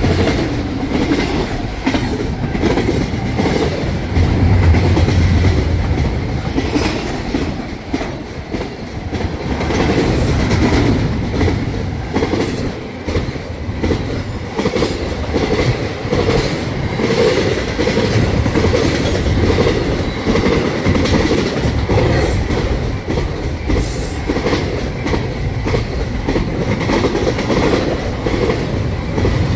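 Intermodal freight cars rolling past at speed: steady rail rumble with the wheels clacking over rail joints, and a few brief high-pitched wheel squeals.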